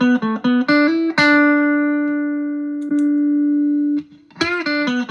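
Electric guitar played through an amp with the Ross compressor switched off: a quick run of picked notes ending on a long held note that is picked again partway through, then the same run starts again near the end.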